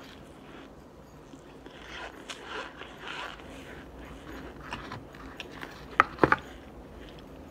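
Close-up chewing and crunching of a bite of pressed cornstarch brick, with a few sharp clicks about six seconds in.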